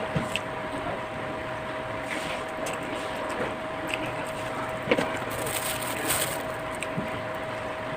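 Close-up eating sounds: a person chewing and crunching fried food, with short clicks and a crisper crunch about six seconds in. A steady electrical hum runs underneath.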